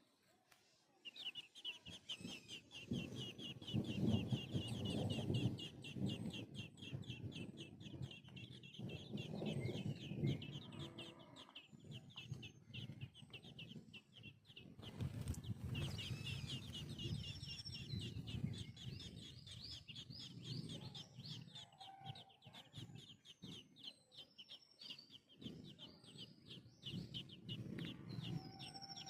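A hen clucking low while a brood of chicks peeps rapidly and continuously, high-pitched, through the whole stretch.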